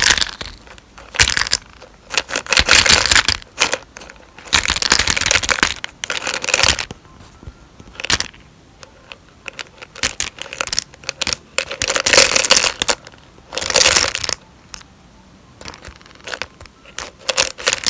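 Crinkling and rustling of plastic or foil packaging being handled, in irregular bursts of a second or so with short pauses between.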